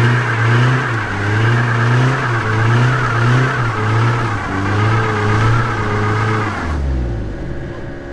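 A modified car's engine and exhaust being revved in repeated throttle blips, the note rising and dipping about once a second. Near the end the pitch falls away sharply and the sound drops off.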